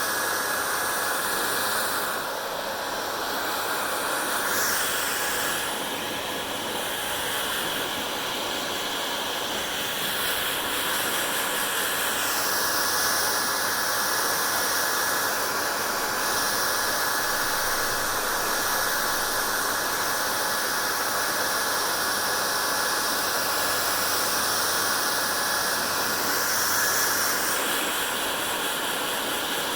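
Hair dryer running continuously: a steady rush of blown air over a faint motor whine and hum. The hiss of the airflow shifts brighter and duller several times.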